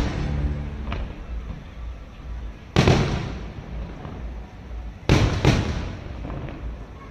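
Aerial fireworks shells bursting: one loud bang about three seconds in, then two more in quick succession about five seconds in, each trailing off in a fading rumble.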